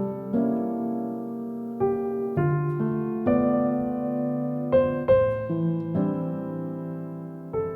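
Background piano music: slow, sustained chords struck about once a second and left to fade.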